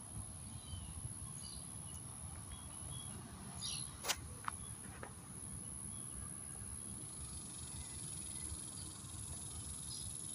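Outdoor nature ambience: a steady high-pitched insect trill runs throughout, with a few short bird chirps. Low wind rumble sits on the microphone, and there is a sharp click a little after four seconds in, followed by a fainter one.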